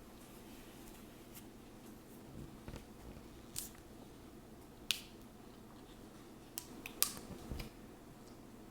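Close-miked eating sounds: scattered sharp clicks and smacks of chewing food and handling it, the loudest about three and a half, five and seven seconds in.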